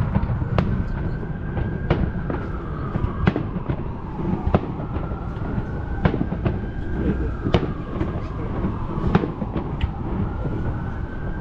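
Fireworks show: sharp bangs and pops from the bursting shells come every second or so over a low rumble, with a faint tone in the background that slowly falls and rises.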